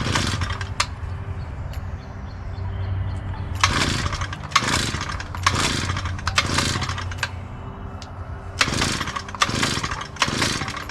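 Recoil starter of a 2-cycle tiller engine being pulled over and over, each pull a short rasping whir. The engine turns over but never catches, which points to a failure to start, with no spark suspected next.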